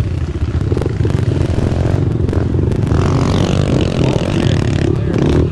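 Small four-stroke pit bike engine running loudly and steadily, its pitch shifting a little as the throttle varies, with some clattering.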